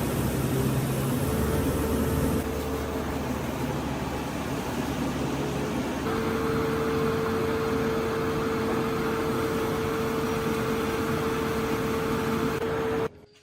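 Rice milling machine running steadily: a loud, even mechanical noise with a steady whine that grows stronger about halfway through, cutting off suddenly near the end.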